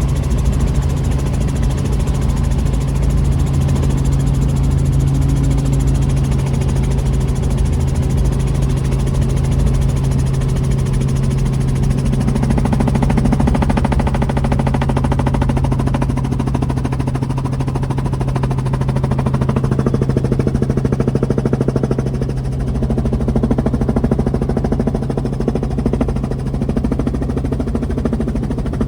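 Helicopter engine and rotor running steadily: a loud, even hum with a constant low tone.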